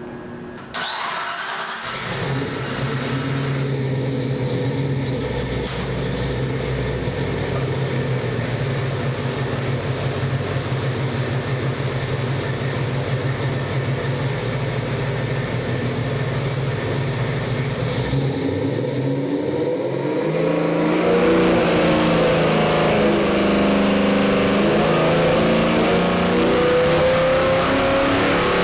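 289 cubic inch Ford V8 crate engine with a hydraulic roller cam and MSD Atomic fuel injection, running on an engine dyno. It comes in about a second in and runs steadily for most of the time. In the last third it is revved up and down, its pitch climbing near the end.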